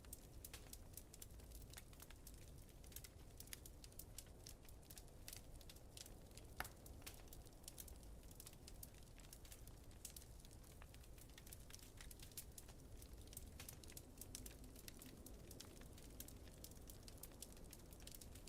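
Wood fire in a fireplace crackling softly, with frequent small irregular pops and one sharper pop about a third of the way in, over a low steady rumble.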